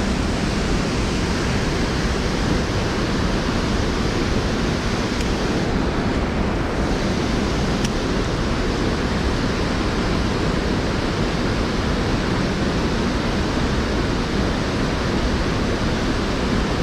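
Steady, loud rush of falling water from a waterfall on a small creek, an even roar with no breaks.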